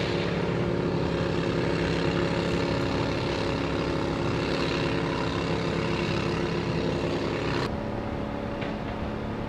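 An engine running steadily with a constant pitched hum. About three-quarters of the way through, the sound changes abruptly to a slightly quieter engine hum at a different pitch.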